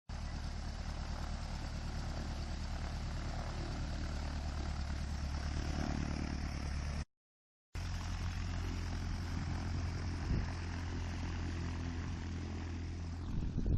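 Ultralight aircraft's propeller engine running steadily during a takeoff run. The sound cuts out completely for about half a second near the middle, then carries on.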